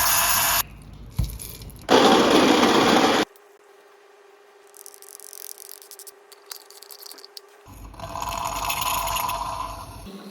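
Handling sounds of a Bialetti Brikka moka pot being readied, cut together in short takes: bursts of loud rushing noise, a sharp click a little past a second in, and quieter metal scraping and ticking between them.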